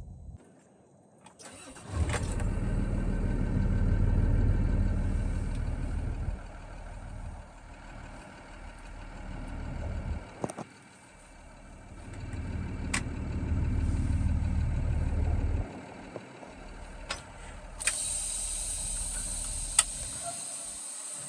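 Box truck engine starting after a moment of quiet, then running and pulling away, its note swelling and easing twice as it accelerates. A steady hiss joins it near the end.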